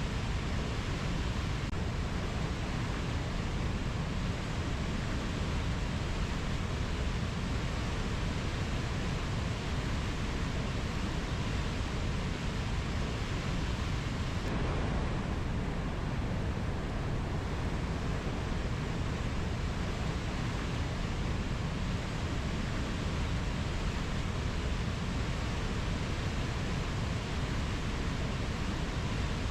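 A steady, even rushing noise at a constant level, with no bird or insect calls standing out.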